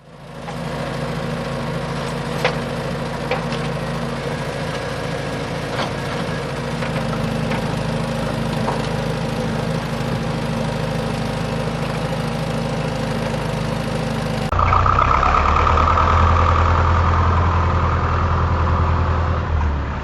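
A steady engine-like drone, typical of a tractor engine running. About two-thirds of the way through it switches abruptly to a louder, deeper drone.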